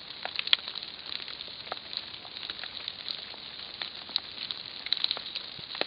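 Rain falling, a steady hiss with many irregular drop ticks.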